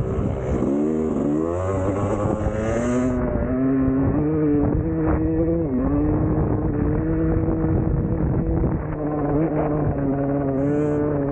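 Two-stroke dirt bike engine under hard riding, revving up and down as the throttle is worked, then held high and fairly steady from about three seconds in, with brief dips in pitch.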